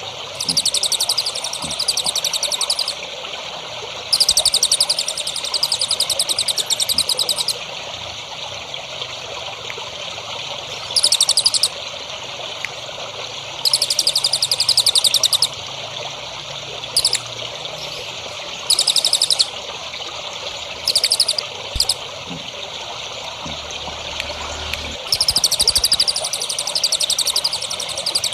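Songbird singing in repeated bursts of fast, high trills, each from under a second to about three seconds long, over steadily trickling water.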